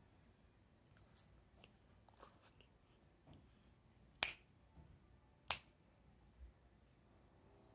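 Quiet clicks and crunches of cornstarch being chewed. The two loudest are sharp clicks a little over a second apart, just after the middle.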